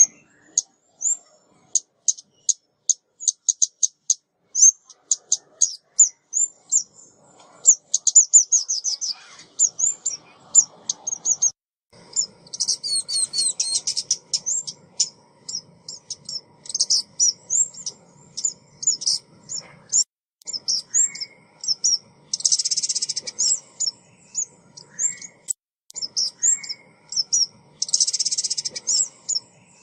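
Female ốc mít songbird calling: a fast, continuous run of high, thin chirps and trills, with dense buzzy chatters about halfway through, past two-thirds of the way, and near the end.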